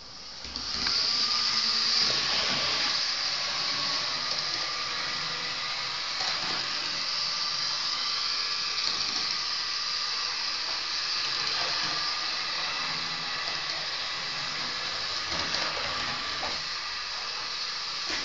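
HO-scale model train running on its track: a steady high whirring from the locomotive's small electric motor and wheels, with a few faint clicks. The whirring comes up during the first second.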